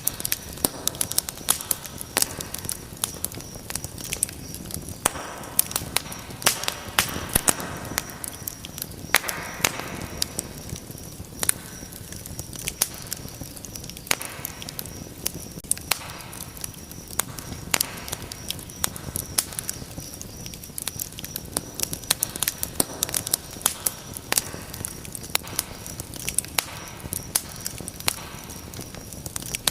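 Wood fire crackling in a fireplace: frequent sharp pops and snaps at irregular intervals over a soft steady hiss of burning, with the flames swelling now and then.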